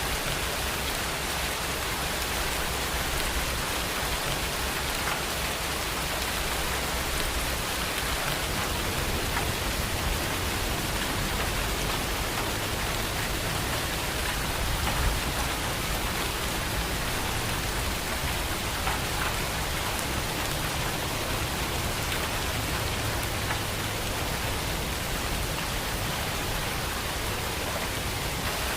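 Steady rain pouring down, an even hiss of drops with a low rumble underneath.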